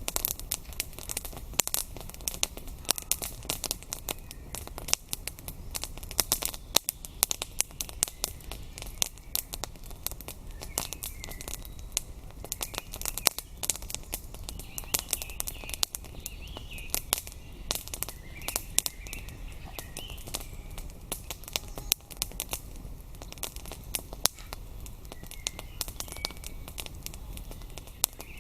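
Wood campfire crackling and popping with many irregular snaps, while small birds chirp faintly in the background now and then.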